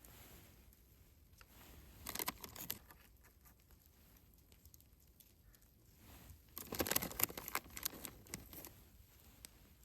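Rustling and crinkling handling sounds in two bursts, a short one about two seconds in and a longer one from the middle to near the end.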